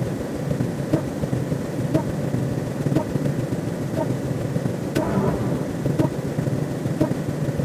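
Steady low rumbling noise with a short click about once a second.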